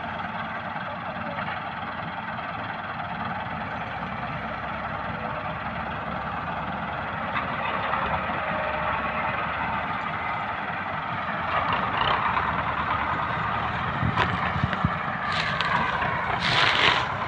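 Massey Ferguson 375 tractor's diesel engine running steadily, getting louder and rougher over the last few seconds.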